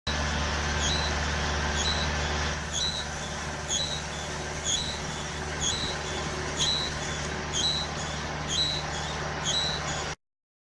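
Diesel engine of a deep soil-mixing auger rig running steadily, with a short high squeak repeating about once a second.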